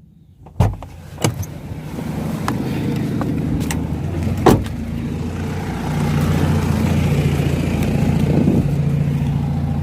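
Car running, heard from inside the vehicle, a steady low rumble that grows louder about six seconds in. Several sharp knocks come early on, with the loudest a little before halfway.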